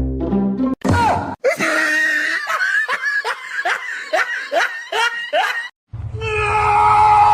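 Laughter in a run of short repeated bursts, each falling in pitch, split across several quick cuts; near the end a steady held tone with a low hum.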